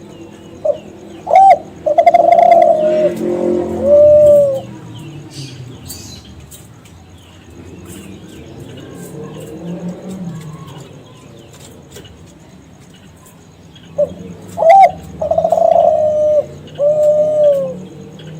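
Kelantan-strain spotted dove (derkuku) cooing in two song phrases, one near the start and one about 14 seconds in. Each phrase is a couple of short coos, a longer coo and a drawn-out coo that falls away at the end. Faint chirping of small birds in the pauses.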